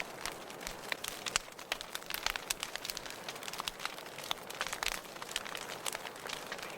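Wood fire burning in a fireplace: a steady hiss with frequent irregular crackles and pops.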